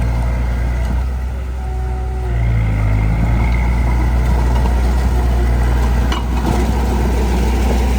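Heavy equipment's diesel engine running steadily, easing off about a second in and picking back up about two and a half seconds in. A short knock about six seconds in.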